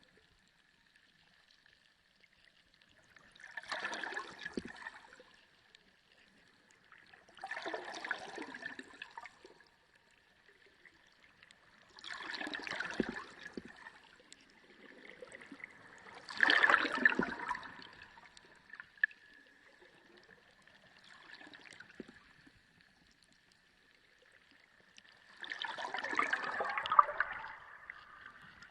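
Sea water sloshing and gurgling in surges every four to five seconds, six in all, with a faint steady high whine underneath.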